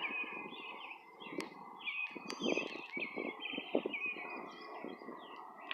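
Songbirds chirping and trilling outdoors, many short calls following one another, over a faint low background rumble.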